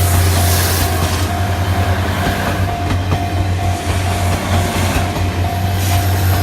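Train running past with a loud, steady rumble.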